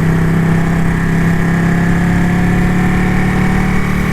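Ducati motorcycle engine running at a steady, unchanging pitch.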